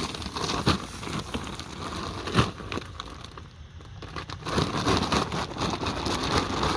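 Woven plastic feed bag, used as a potato grow bag, crinkling and rustling with irregular crackles as it is handled and tipped. It goes briefly quieter just past the middle.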